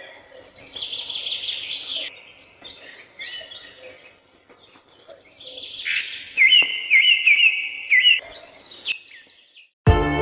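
Birds chirping and singing, with a run of repeated rising-and-falling phrases about six to eight seconds in as the loudest part. Music starts at the very end.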